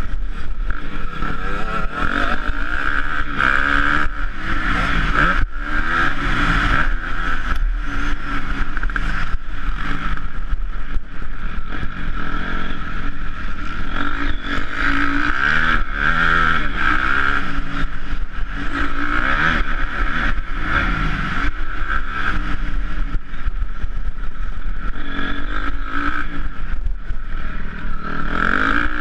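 Honda CRF250R single-cylinder four-stroke motocross engine being ridden hard, its pitch rising and falling again and again as the throttle opens and closes.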